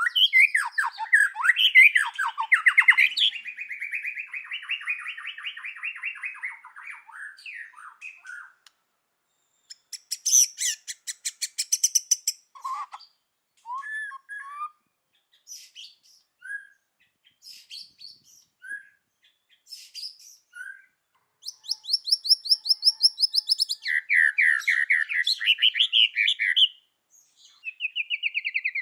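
White-rumped shama singing: varied whistled and warbled phrases with rapid, high rattling trills, broken by short pauses and single short notes.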